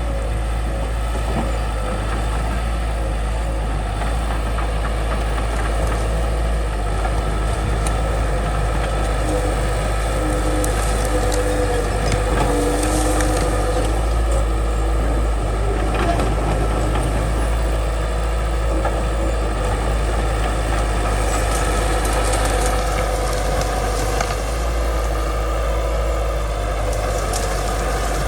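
Bulldozer's diesel engine running steadily under load, with a few sharp cracks about a third to halfway through.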